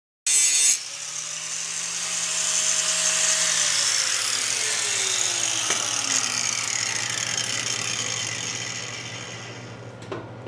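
Electric grinder with a flat grinding wheel grinding a weld off a steel plate: a loud hiss of the wheel on metal that starts abruptly just after the start and fades near the end. A whine in it drops in pitch about halfway through.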